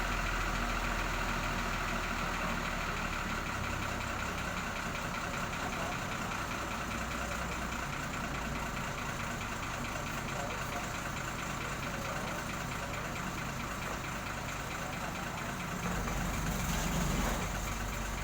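An engine idling steadily, growing briefly louder near the end.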